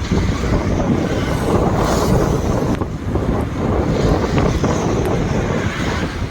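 Wind buffeting the microphone in a steady low rumble, mixed with the running of a moving motorcycle.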